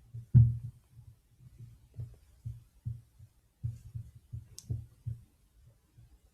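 Soft, low thuds at an irregular pace of about one to two a second, from a stylus working a drawing tablet while erasing, with a single sharp click about four and a half seconds in.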